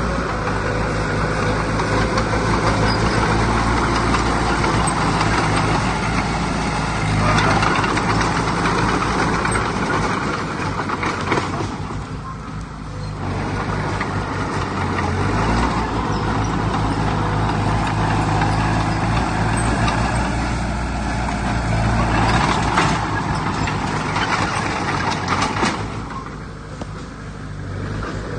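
Heavy diesel earthmoving machinery running under load, a steady low engine drone with a clattering, grinding noise over it. It swells and eases, dropping off briefly about twelve seconds in and again near the end.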